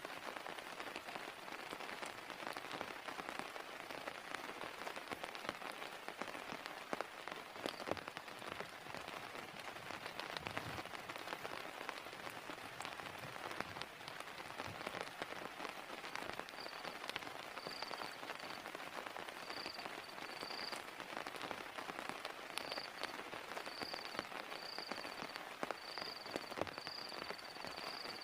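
Steady heavy rain, with many separate drops ticking through the hiss. About two-thirds of the way in, a faint high chirp starts repeating at irregular short intervals.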